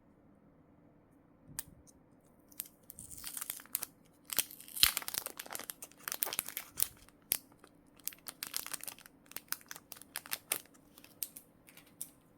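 Plastic packaging crinkling and tearing as it is handled and pulled open, in irregular crackly bursts that start a couple of seconds in and are loudest about five seconds in.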